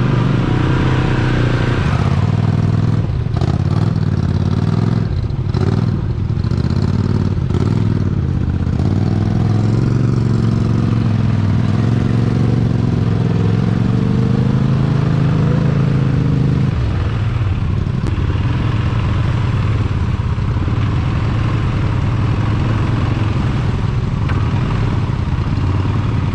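Mega truck engine running hard, its pitch rising and falling with the throttle, with clattering over it; the engine note drops and changes about 17 seconds in.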